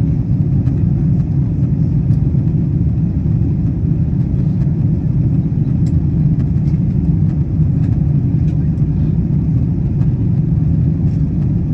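Steady low rumble inside the cabin of a Boeing 777-200ER airliner in flight on descent: engine and airflow noise, even throughout, with a few faint clicks.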